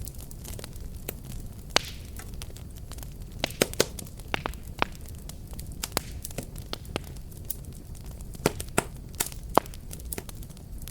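Wood fire burning with a steady low rumble and frequent irregular sharp crackles and pops, a cluster of louder snaps about a third of the way in and again near the end.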